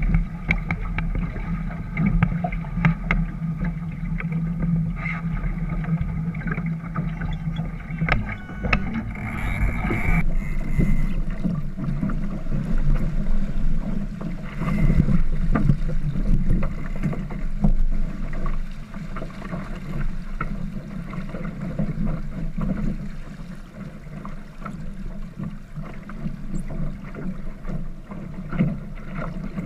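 Small sailboat under way, with a steady low rumble of water and hull noise. A higher steady hum cuts off suddenly about ten seconds in.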